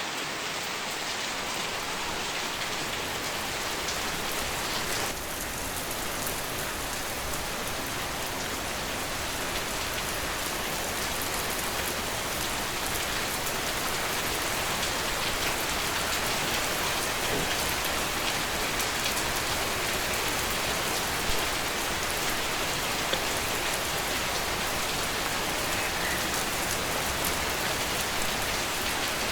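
Steady rain falling, a dense even hiss made of countless fine drop patters.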